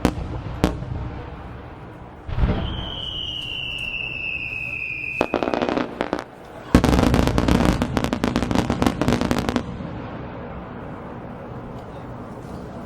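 Aerial fireworks going off: a few sharp cracks, then a boom followed by a whistling tone that falls slightly over about three seconds, then a dense spell of rapid crackling and popping lasting about three seconds.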